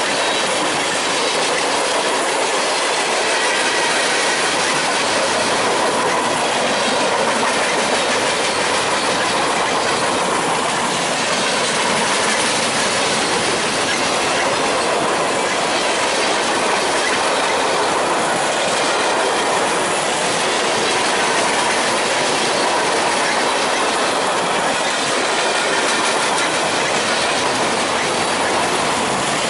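A train passing close by: a steady rush of wheels on rail with clickety-clack over the rail joints and a faint, steady wheel squeal.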